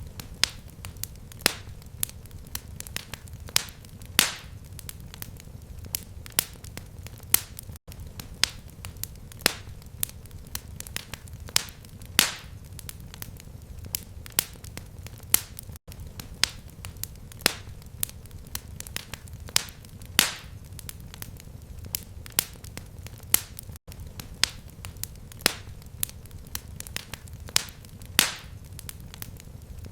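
Fireplace fire crackling: sharp pops and snaps, several a second and irregular, over a steady low rumble of flame. The sound cuts out for an instant about every eight seconds, where the looped recording joins.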